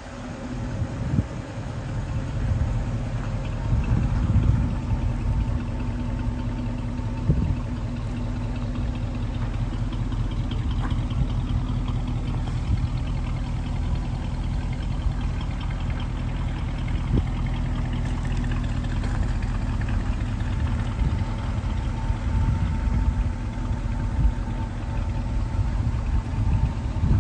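Ford 400 cubic-inch supercharged V8 idling steadily in a parked car.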